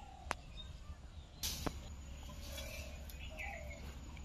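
Quiet outdoor ambience with a few short bird calls near the end, a sharp click about a quarter of a second in and a brief rustle about a second and a half in.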